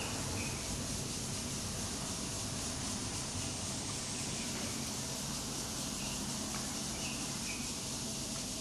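Steady outdoor background noise, an even hiss, with a few faint short high chirps at irregular intervals.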